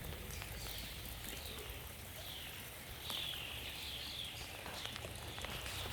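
A songbird singing a series of short, high, wavering phrases, loudest a few seconds in, over light rain with scattered raindrop ticks.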